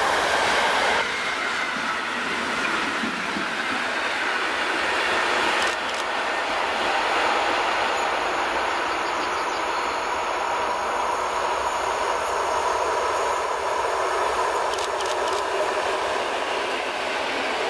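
EN57 electric multiple unit approaching along the track and drawing level, with a steady rolling noise and wheels clicking over rail joints as it nears.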